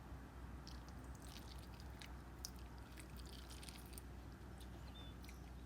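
Faint, irregular crunchy clicks of breakfast cereal being chewed close to the microphone, over a low steady hum.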